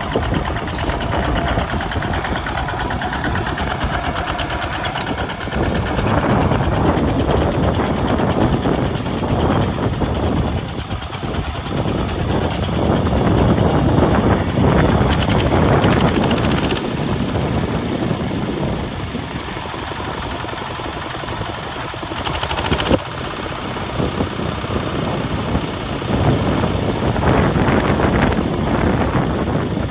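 Kubota RT single-cylinder diesel engine of a two-wheel hand tractor running under load while plowing, its level swelling and easing, with one sharp knock a little after two thirds of the way through.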